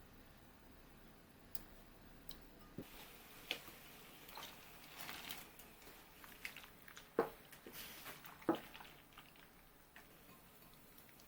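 Quiet handling noises: scattered light clicks and soft rustles, with two sharper taps about seven and eight and a half seconds in.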